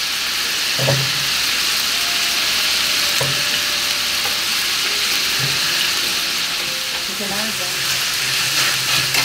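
Steady sizzle of mushrooms frying in hot butter in a copper skillet; near the end, bacon frying in a cast-iron pan.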